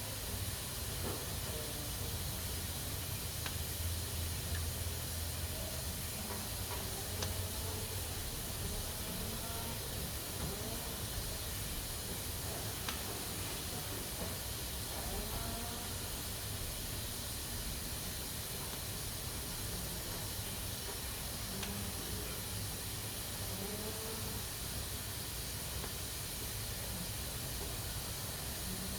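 Pressure cooker letting off steam through its valve: a steady, unbroken hiss, the sign that it is up to pressure.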